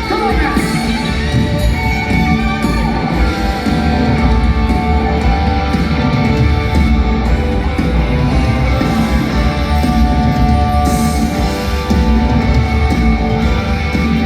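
A live rock band plays loud, with guitar to the fore and no singing.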